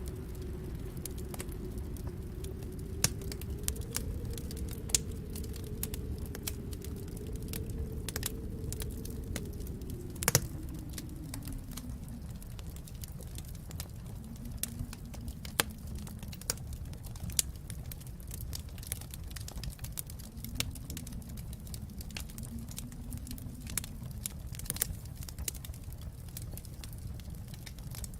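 Wood fire crackling with irregular sharp pops over a low rumble, joined by a howling wind that rises and falls in pitch, dying down about twelve seconds in and coming back faintly later.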